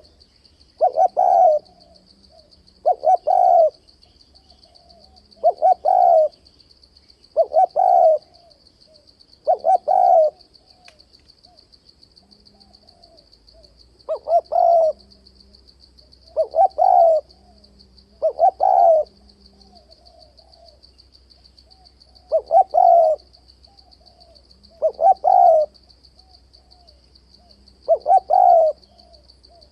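Spotted dove cooing: short phrases repeated about every two seconds, with a pause of a few seconds partway through. A faint steady high buzz runs underneath.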